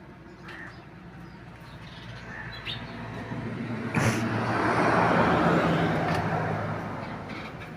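A motor vehicle passing by on the road, its noise building over a few seconds, loudest about five seconds in, then fading away, with a sharp click near its peak.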